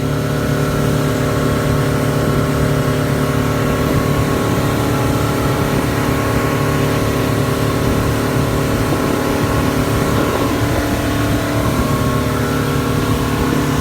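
Motorboat engine running steadily at cruising speed under way, a constant even tone with no change in pitch.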